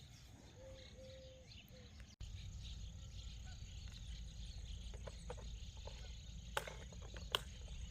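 Quiet outdoor ambience with a faint, steady, high-pitched insect drone. A low rumble comes up at an abrupt cut about two seconds in, and two sharp clicks sound near the end.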